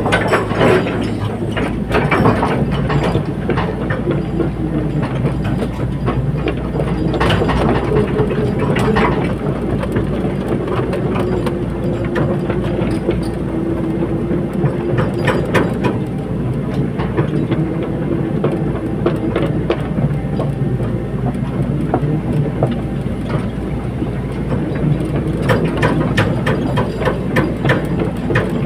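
Caterpillar 320D excavator at work: its diesel engine runs steadily, its pitch shifting a little under load, with frequent metallic clanks and knocks throughout.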